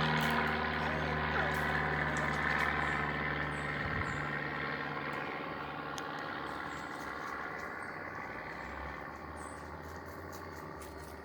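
Light propeller aircraft's piston engine droning, fading steadily as the plane moves away.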